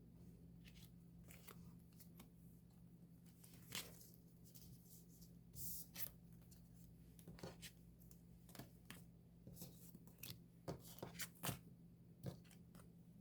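Faint, scattered clicks and rustles of album packaging, paper and cards being handled, with a short rustling hiss about five and a half seconds in, over a low steady hum.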